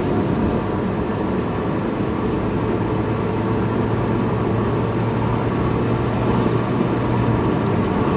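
Car on the move heard from inside the cabin: steady road and engine noise with a low, even hum.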